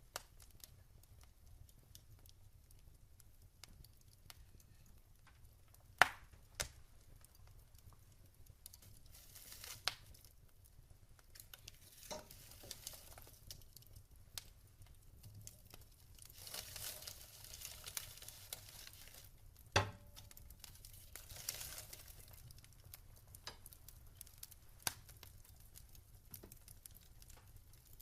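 Burning wood in a fireplace crackling: scattered sharp pops, the loudest about six and twenty seconds in, with soft hissing between them.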